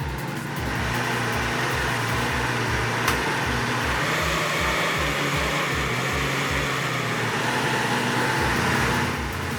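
Heavy vehicle running with a steady rushing noise that comes in about half a second in and drops away near the end, over an even low pulsing beat. One sharp click about three seconds in.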